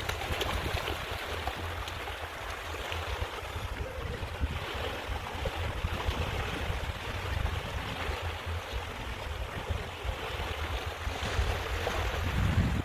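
Steady wash of estuary water lapping at the shore, with wind rumbling on the microphone.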